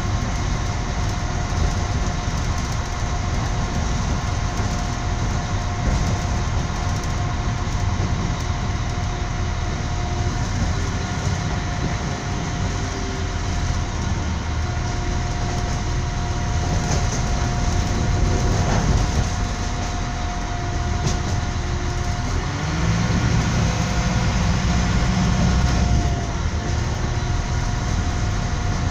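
Moving train heard from inside the carriage: a steady rumble of wheels on the track with a thin constant whine, growing louder and deeper for a few seconds near the end.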